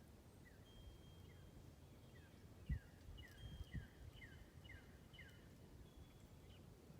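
Faint songbird song: a series of short, down-slurred whistled notes at about two a second, with a few held higher whistles between them. A low thump comes nearly three seconds in, and a second one about a second later.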